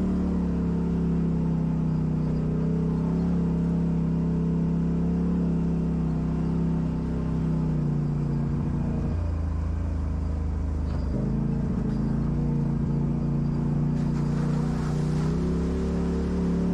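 Off-road vehicle engine running at a steady speed. Its note drops lower for about two seconds in the middle, then comes back up.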